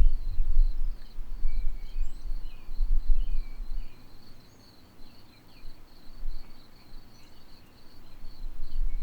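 Crickets trilling steadily, with scattered short bird chirps and a low rumble that is loudest in the first few seconds and again near the end.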